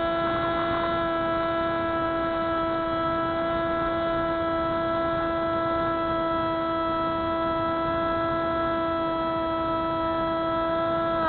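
Spyhawk FPV model plane's electric motor and propeller whining at one steady throttle, holding a single pitch, which drops at the very end.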